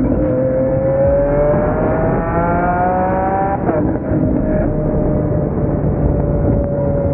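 Twin-turbo Lamborghini Aventador V12 accelerating, its engine note rising for about three and a half seconds. The note then drops suddenly and settles into a steady, slowly falling note.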